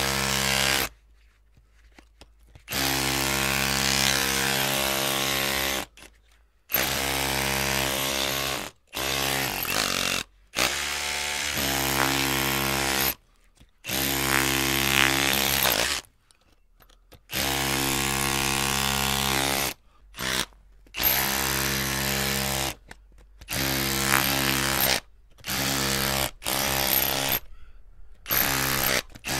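Electric drill motor running in repeated bursts, switched on and off about a dozen times. Each run lasts from half a second to three seconds at a steady pitch and starts and stops abruptly, with short pauses between.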